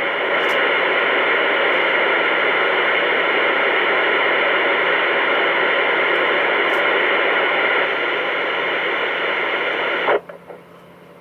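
CB radio speaker hissing with steady static from an open channel, with no voice on it; the hiss cuts off abruptly about ten seconds in.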